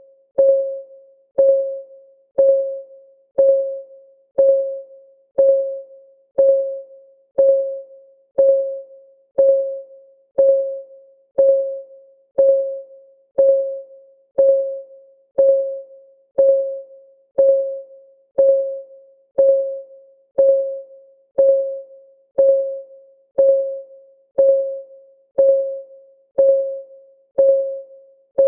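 Ticking-clock sound of a countdown timer: a steady tick once a second, each tick a short single-pitched click that fades quickly.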